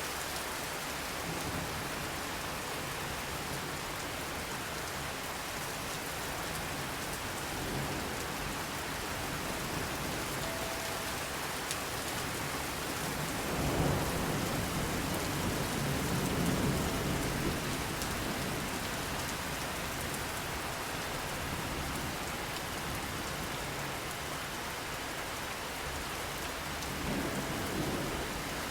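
Steady heavy rain with a low rumble of thunder swelling about halfway through, and a smaller rumble near the end.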